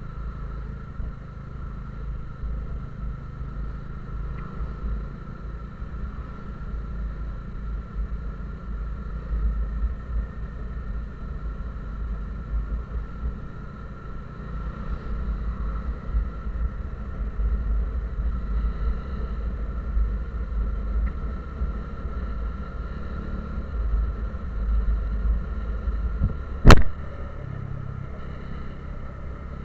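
A motor vehicle travelling on the road: a steady low engine and road rumble, with one sharp click near the end.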